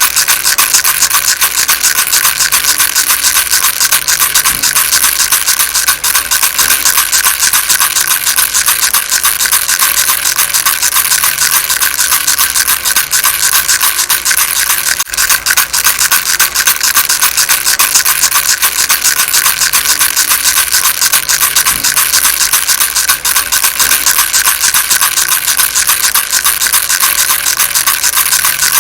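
Baby rattle shaken steadily: a loud, dense, fast rasping patter of small beads clicking inside it, with no breaks.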